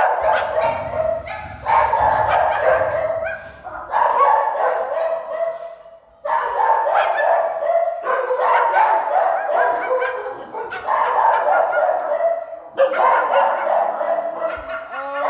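Several dogs barking and yipping at once, in waves of a second or two with short pauses between.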